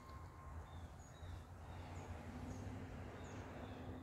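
Faint outdoor ambience of birds chirping: short, high calls repeating every half second or so over a low rumble. A faint steady low hum joins about halfway through.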